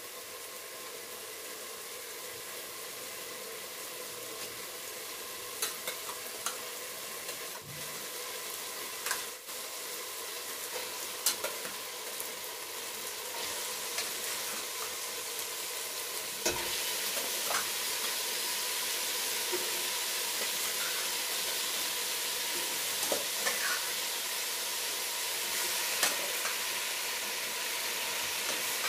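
Onion and green chilli masala, then raw chicken pieces, frying in a stainless steel pot: a steady sizzle that slowly grows louder, with scattered clicks of a spatula stirring and scraping against the pot.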